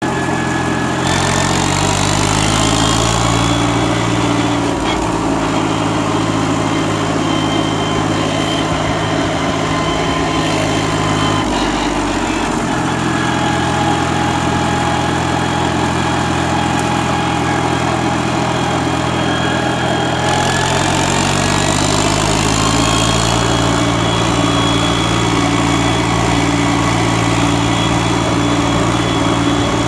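Holder A55 articulated tractor's diesel engine running under load, its revs climbing soon after the start, dropping about halfway through, then climbing again and holding steady.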